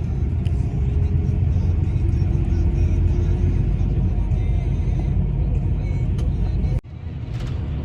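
Steady low rumble of a car's engine and road noise heard from inside the moving car's cabin, with a brief sharp break about seven seconds in.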